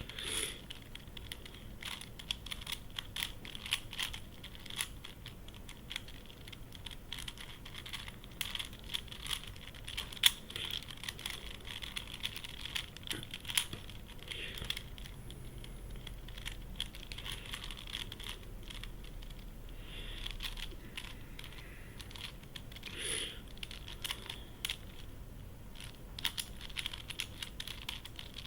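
Plastic clicking and clacking of a YuXin Corner Helicopter 2x2 twisty puzzle being turned by hand during a speedsolve. The clicks come in irregular runs of quick turns with short pauses between them.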